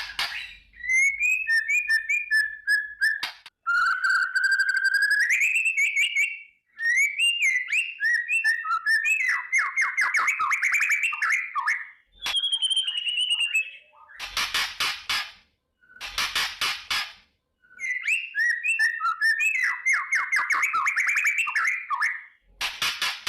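White-rumped shama (murai batu) singing: loud, varied whistled phrases that glide up and down and run into fast trills, broken by short harsh rattling bursts, the shama's 'kretekan' call. The same run of phrases comes round again about halfway through.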